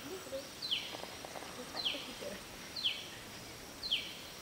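A bird calling: one short, high note that falls in pitch, repeated evenly about once a second, four times, over faint forest background.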